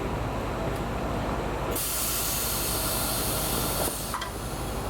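A strong hiss starts suddenly about two seconds in and stops abruptly about two seconds later, over a steady low machinery hum in the rail depot.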